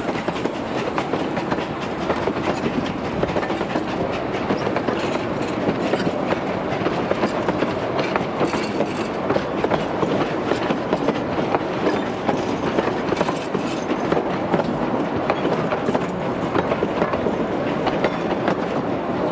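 Durango & Silverton narrow-gauge train rolling steadily along the track, its wheels clicking over the rail joints.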